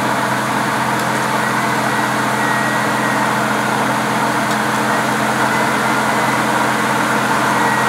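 Jeep engine idling steadily, a constant low hum, with a faint thin high whine above it.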